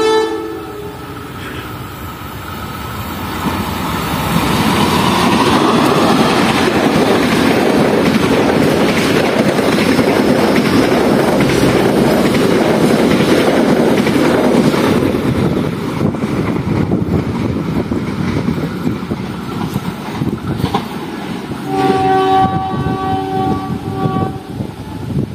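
Diesel-hauled passenger train passing close by. The rumble and wheel clatter build, stay loud for about ten seconds, then ease off. Near the end a horn sounds for a few seconds.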